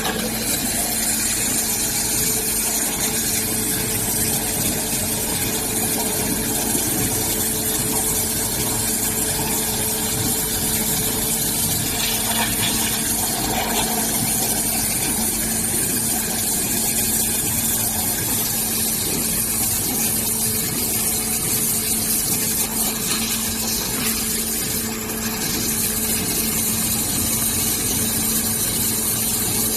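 Hualong HLRC-3020 5-axis CNC waterjet cutting machine running: the high-pressure water jet gives a steady loud hiss, over a constant hum from the machine's pump, with a brief drop in level late on.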